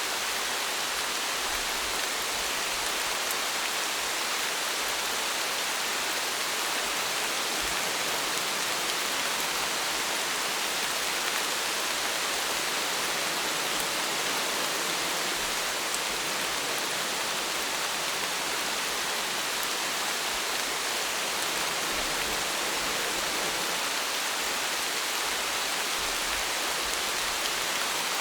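Rain falling steadily, an even hiss with no breaks or separate drops standing out.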